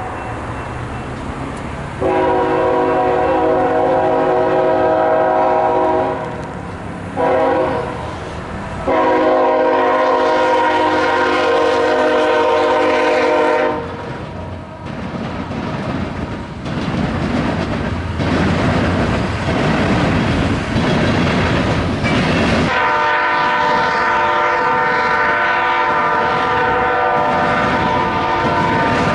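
Diesel locomotive air horn sounding the grade-crossing signal, long, short, long, as a loaded coal train approaches. The passing locomotives and loaded coal hoppers follow with heavy rolling wheel noise and clacking over the rail crossing diamonds, and the horn sounds again in one long blast near the end.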